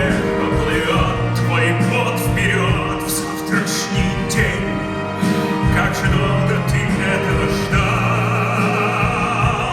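Theatre orchestra playing an instrumental passage of a stage musical, with repeated sweeping figures over sustained chords.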